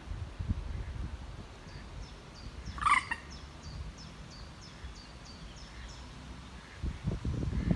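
Waterside birds: one short, loud bird call about three seconds in, over a faint high chirp repeated a couple of times a second. Wind rumbles on the microphone throughout, gusting more strongly near the end.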